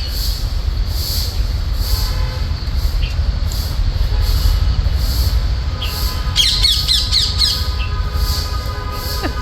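Alexandrine parakeet squawking in a short, rapid run of harsh calls about six and a half seconds in. Under it there is a steady low rumble and a faint high pulse repeating a little more than once a second.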